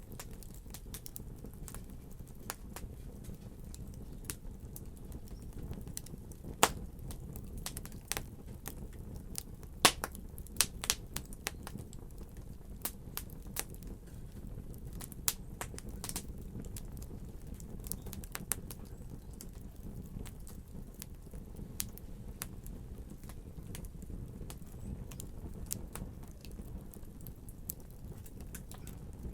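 Wood fire burning in a fireplace: a steady low rumble of the flames with irregular crackles and pops from the burning logs. The two loudest pops come about 7 and 10 seconds in.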